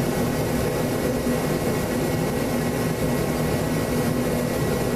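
Steady background machine hum with a constant low drone, unchanging throughout.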